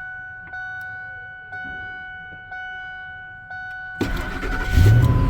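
Truck's warning chime dinging about once a second. About four seconds in, a new starter cranks the 2003 Ford F-150's 5.4 L V8, which fires and catches within a second and settles into running.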